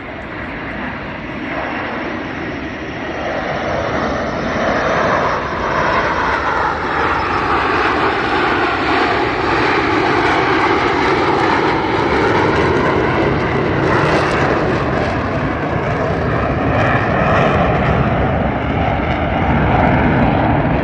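Jet roar of Blue Angels F/A-18 jets flying past, building over the first few seconds and staying loud, with a sweeping rise and fall in tone around ten seconds in.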